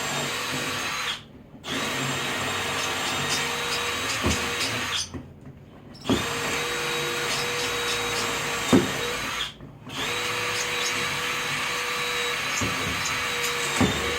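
Electric drill running at a steady speed into the wooden frame, in four long stretches broken by short stops, with a few sharp clicks in between.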